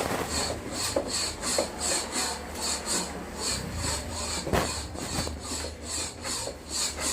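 Rhythmic rubbing or scraping, about three short strokes a second, with a sharper knock about four and a half seconds in.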